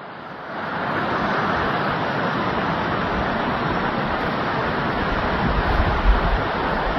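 Blizzard wind blowing hard and steadily, rising within the first second, with gusts buffeting the microphone about six seconds in.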